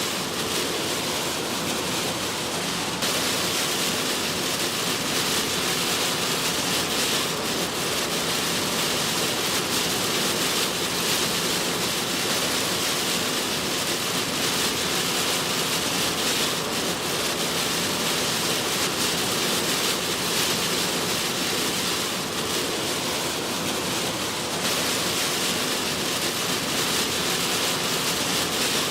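Heavy storm rain on a car driving through it, with tyre spray and road noise, making a steady dense hiss.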